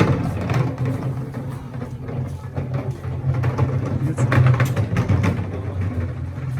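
A motor vehicle's engine running with a steady low hum, mixed with scattered clatter and road noise.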